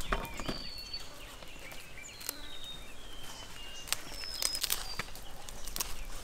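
Several short, thin bird whistles, some falling slightly in pitch, over a faint outdoor background, with scattered sharp clicks and knocks.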